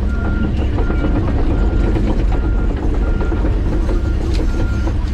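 John Deere 130G excavator's diesel engine running steadily under hydraulic work. A faint backup alarm beeps about once every three-quarters of a second.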